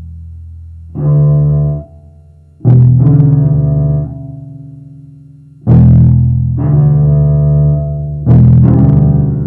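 Hand-made double bass played as music: a slow line of low notes, most struck sharply and left ringing for a second or more, with a new note about every one to three seconds.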